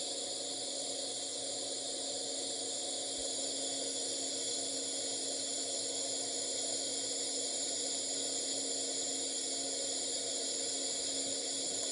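Tsugami B0203-III CNC Swiss lathe's live cross tool spinning at its 7,500 RPM maximum: a steady hum under a constant high hiss.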